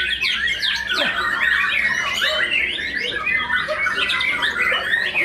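White-rumped shamas (murai batu) singing, a dense, unbroken tangle of quick whistled sweeps and chattering notes that overlap as if from several birds at once.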